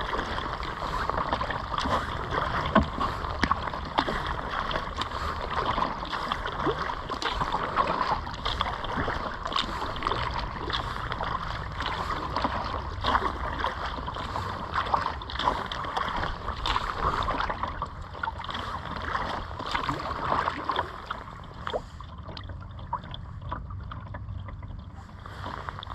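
Water splashing and lapping around a kayak as it is paddled, with many small irregular splashes and drips over a low steady rumble. It becomes quieter near the end.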